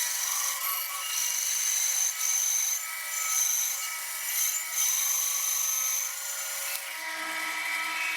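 Bandsaw cutting through a walnut stock blank. A steady running sound with a high whine that rises and falls as the blade is fed through the wood. About seven seconds in the high cutting sound drops away, leaving the saw running.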